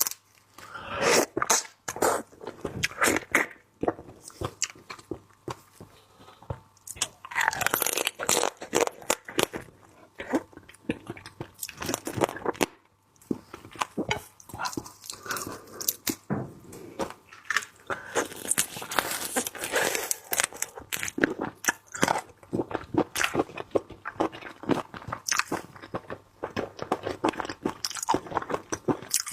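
Close-miked chewing and crunching of seafood: a dense run of wet clicks and crackles that swells into louder bursts several times.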